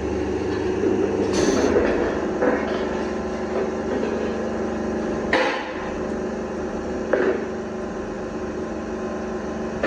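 A few sharp, irregularly spaced metal knocks, like hammer blows on sheet metal, over a steady machine hum.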